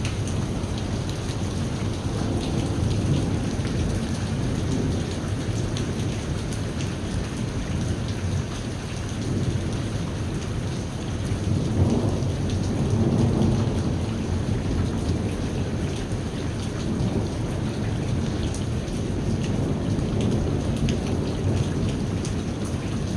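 Steady heavy rain falling, with a low rumble of thunder that swells in the middle, loudest about halfway through.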